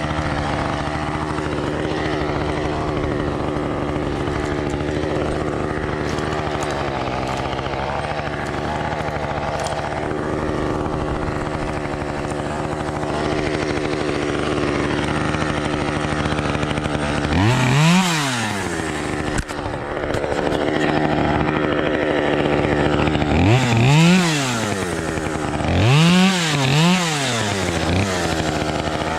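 Small two-stroke chainsaw idling steadily, then revved up and back down briefly about five times in the second half.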